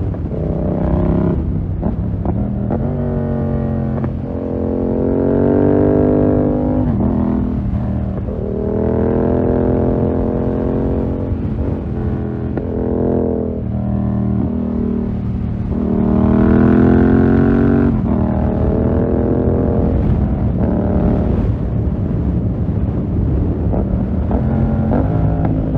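2020 Yamaha MT-07's parallel-twin engine through a full SC-Project 2-1 exhaust, riding under load: the revs climb in several long, steady pulls and drop back sharply between them, as with accelerating and shifting through the gears.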